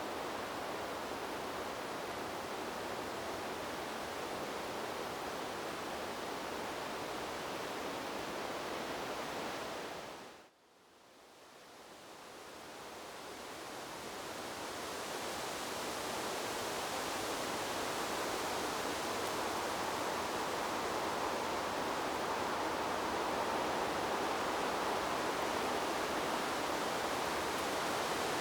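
Steady rushing of wind through trees, an even hiss with no distinct gusts. About ten seconds in it fades away almost to nothing, then swells back over the next few seconds to a slightly louder, brighter rush.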